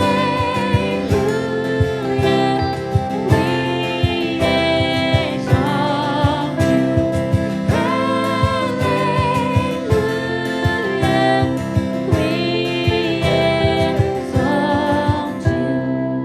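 Church worship song played live: voices singing held notes with vibrato over band accompaniment with a steady beat. The music dies down near the end.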